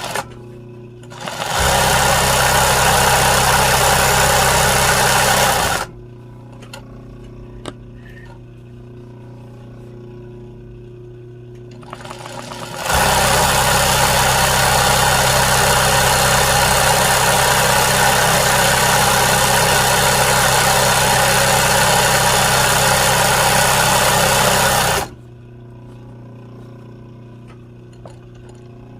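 Sewing machine stitching embroidery in two runs. A short one lasts about four seconds near the start, and a long one of about twelve seconds begins about thirteen seconds in, each stopping suddenly. Between the runs and after them there is a low steady hum with a few small clicks.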